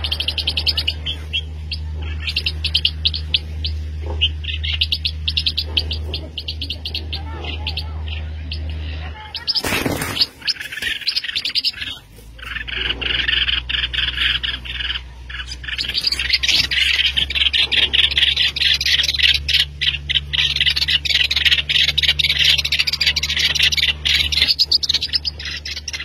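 Small songbirds chirping rapidly and continuously at a nest, high-pitched and densest in the second half, over a steady low hum. About ten seconds in, a brief loud rustle or knock cuts across them.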